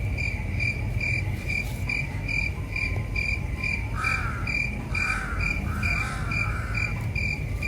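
Cricket chirping in an even rhythm, about two to three high chirps a second. A warbling call joins it between about four and seven seconds in.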